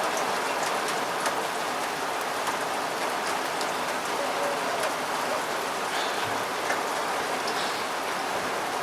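Steady rain falling, with individual drops ticking.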